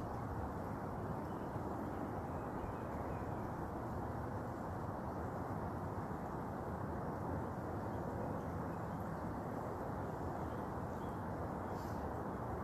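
Steady outdoor background noise, an even rushing hiss with no distinct event.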